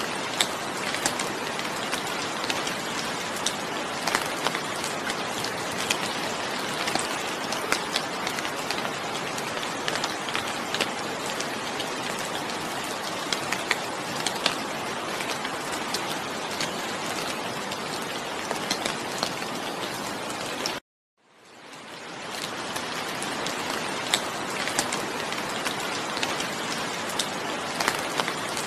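Steady rain falling, with many close drops ticking sharply through the hiss. About 21 seconds in the sound cuts out suddenly to silence for a moment and fades back up.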